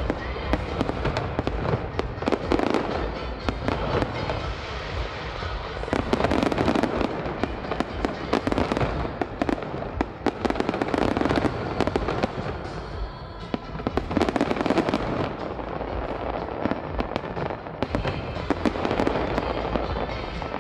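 Aerial fireworks going off continuously: dense, rapid bangs and crackling from shell bursts, coming in waves of heavier volleys.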